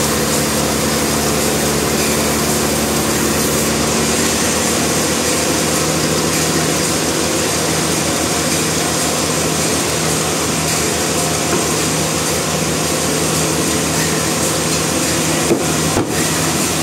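Sawmill machinery running steadily, an engine-driven hum with a couple of brief clicks near the end.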